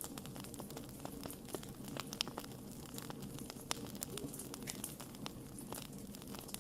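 Wood fire burning, with irregular sharp crackles and pops over a low steady rumble of the flames; one pop about two seconds in stands out as the loudest.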